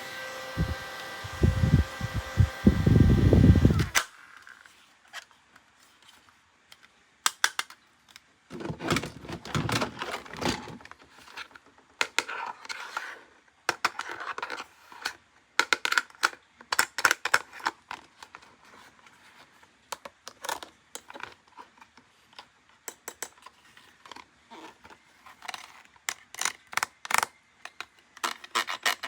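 Plastic toy packaging and toy parts being handled: scattered clicks, crinkling and tearing in irregular bursts. It opens with a steady electronic tone over low thumps that cuts off suddenly about four seconds in.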